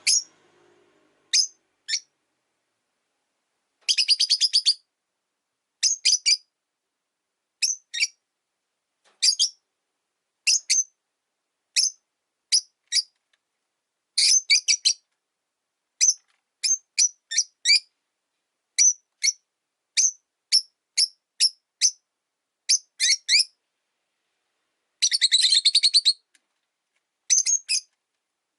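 Rosy-faced lovebirds chirping: short, sharp, high-pitched chirps in ones and twos every second or so, with quick rattling runs of chirps about 4 seconds in, about 14 seconds in and near the end.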